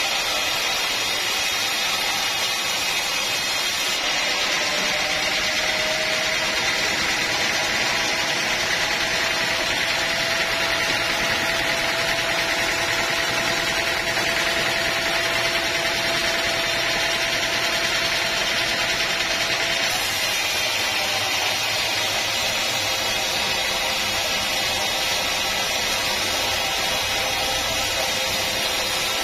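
Sawmill machinery running steadily: a continuous loud mechanical noise with a faint steady whine.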